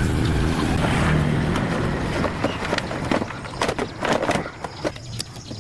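An engine running steadily, with scattered sharp knocks and clicks over it.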